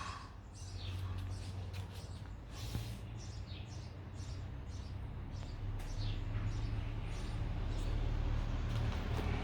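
Small birds chirping in quick, scattered calls, over a low steady rumble that grows louder toward the end.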